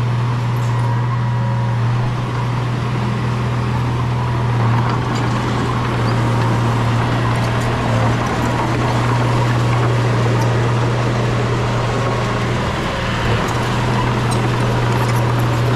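Bulldozer's diesel engine running steadily with a continuous low drone, with scattered faint clicks over it.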